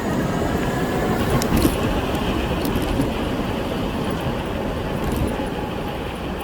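Steady rumble and rush of riding an electric bicycle on the road: tyre and wind noise, with a few brief rattles.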